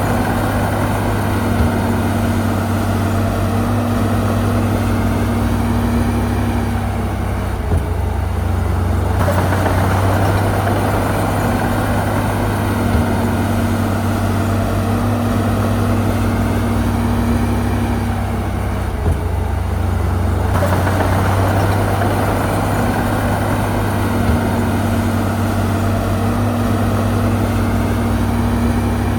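Heavy diesel engine of a crawler bulldozer running steadily under work. Its sound eases off briefly about every eleven seconds, with a few light clanks.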